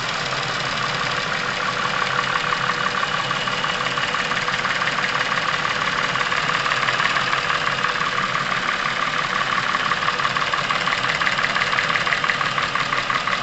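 Chevrolet Epica engine idling with a fast, steady clatter from the top of the engine: the noisy valvetrain knock of a high-mileage engine, which the owner puts down to clogged deposits.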